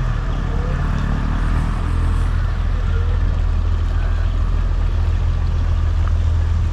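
Boat engine running steadily, a low unbroken drone.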